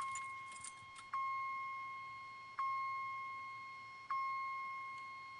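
Jeep Grand Wagoneer's dashboard warning chime ringing repeatedly, with a new strike about every second and a half, each one fading, while the engine is off before cranking.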